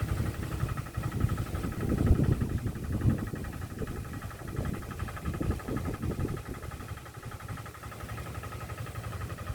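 Wind buffeting the microphone in irregular gusts, strongest about two seconds in and again around five to six seconds, over a steady buzzing drone.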